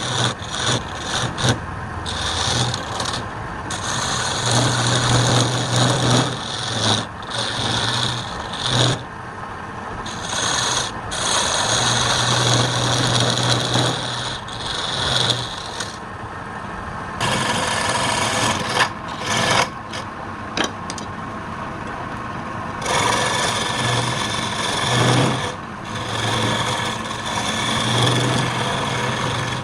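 Wood lathe running with something rasping against the spinning wood, in uneven passes with short breaks, over a low motor hum that comes and goes.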